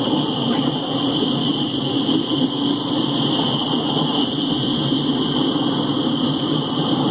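Hopper cars of a coal train rolling past: a steady rumble of steel wheels on the rails with a constant high-pitched hiss over it.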